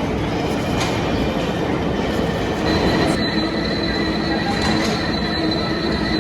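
Metal lathe running, a steady mechanical noise, with a thin high whine that comes in about two and a half seconds in and holds.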